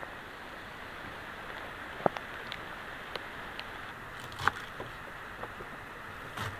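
Heavy rain falling steadily, a constant hiss, with a few sharp drips or taps standing out, the loudest about two seconds in and about halfway through.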